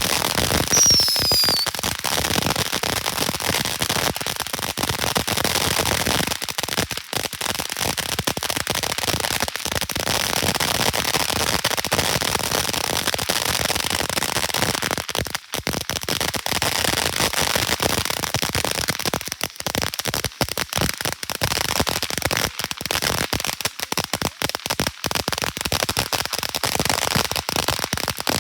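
Fireworks crackling and popping in a dense, continuous barrage, with a short falling whistle about a second in.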